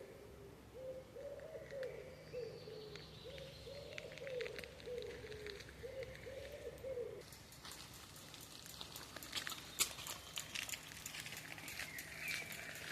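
A pigeon cooing in a run of low, repeated phrases for the first half. About seven seconds in the cooing stops and footsteps crunch on the forest floor, with faint chirps of small birds.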